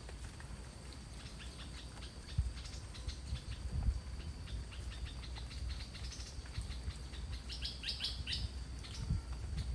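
Birds chirping in short, quick notes, with a bright burst of chirps about eight seconds in, over low irregular thuds.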